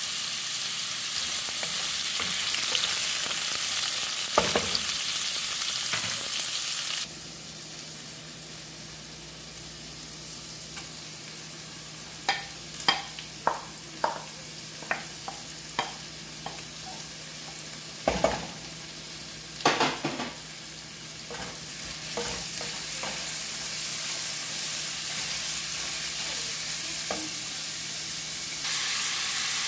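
Carrot and beet sticks sizzling as they fry in an aluminium pot. About seven seconds in the sizzle drops to a quieter hiss, then comes a run of sharp clinks and knocks from the pot lid and a utensil against the pot, before the sizzle builds again and turns loud near the end.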